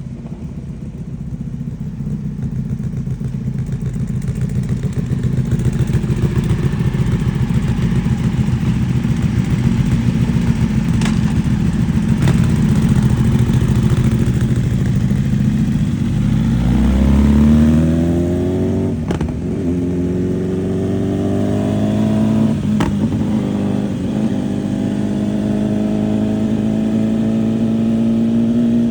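Superbike with a titanium full exhaust: a steady low rumble at first, then about two-thirds in it accelerates hard with a rising pitch. It shifts up twice, about four seconds apart, each shift a sudden pitch drop, and then holds a steady drone.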